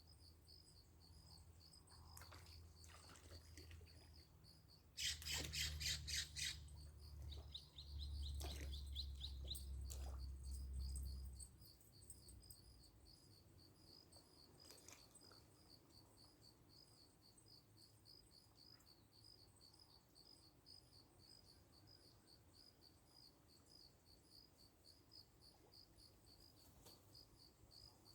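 Crickets chirping in a steady, even pulse. About five seconds in, a short flurry of bird chirps and sharp clicks rises over them, with a low rumble lasting several seconds.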